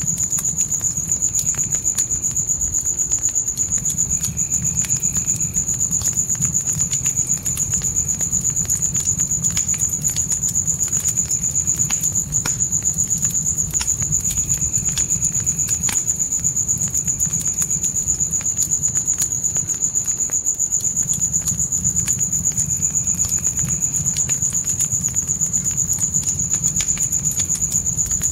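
Crickets chirping in a steady, high-pitched continuous trill over a crackling fire, with scattered sharp pops and a low rumble from the flames.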